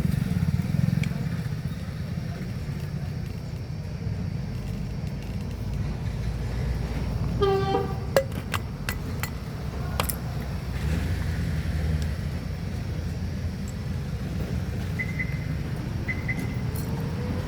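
Low, steady engine running, with a brief horn toot about seven seconds in, a few sharp clicks just after it, and two short high beeps near the end.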